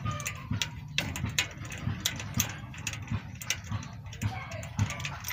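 Ratchet wrench clicking in short, irregular runs, with knocks of metal tools, as a tight spark plug is worked loose.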